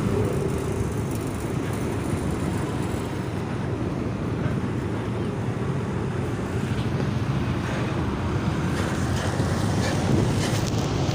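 Heavily loaded UD truck's diesel engine labouring with a steady low rumble, mixed with wind buffeting the microphone.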